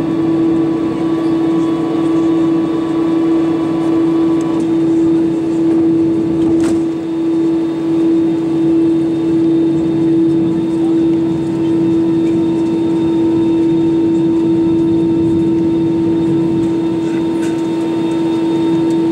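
Airbus A320-200 cabin noise: a steady engine drone with a strong even hum and fainter whines over it, and one sharp click about a third of the way in.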